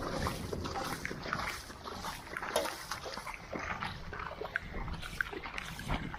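Water splashing and rain patter on a soaked camera: many irregular sharp taps and splashes over a steady wet hiss.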